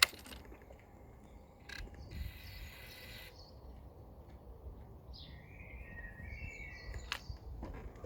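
Outdoor ambience with a low rumble and faint bird chirps in the second half, opened by a single sharp click.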